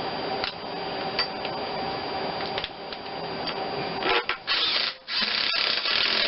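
Workshop handling noises of tools and bolts: scattered light clicks and knocks over a steady hum, then about two seconds of dense scraping or rustling near the end.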